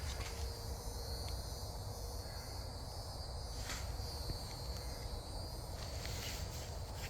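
Occasional footsteps, heard as a few faint clicks, over a steady low rumble.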